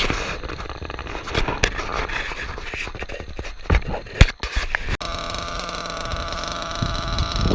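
Scraping and handling knocks, the loudest about four seconds in. From about five seconds a small nitro RC engine, the drag-modified Novarossi .28, idles steadily.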